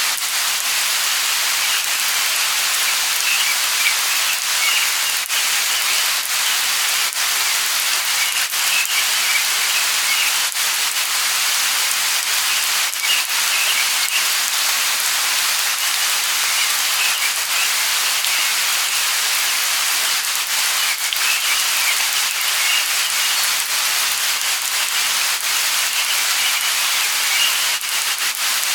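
Light rain falling steadily, an even hiss with individual drops pattering, and faint bird chirps now and then.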